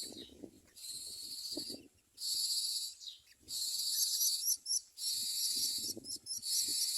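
Myna nestlings begging with harsh, raspy hissing calls, about five calls of roughly a second each in quick succession, the sound of chicks asking to be fed.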